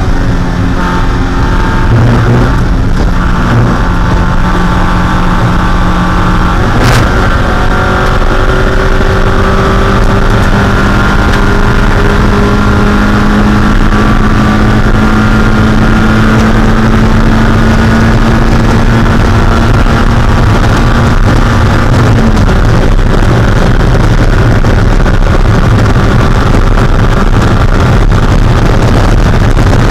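Mazda Miata 1.6-litre four-cylinder race engine running hard at high revs, its pitch holding and slowly climbing over a long flat-out stretch. There is a shift-like step in pitch with a sharp click a few seconds in, and the note changes again about three quarters of the way through.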